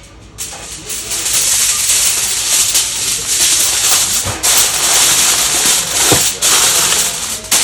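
A loud, steady hissing noise that starts about half a second in and briefly drops out twice.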